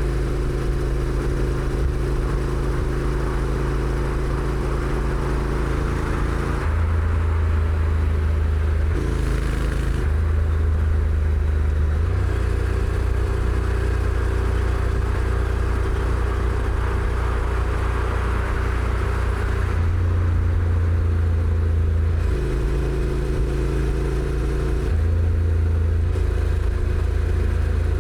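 Honda NC750X's 745 cc parallel-twin engine running under way on the stock exhaust, heard from the rider's position with wind and road noise. Its steady note jumps abruptly between a few pitches several times, as the dual-clutch gearbox changes gear.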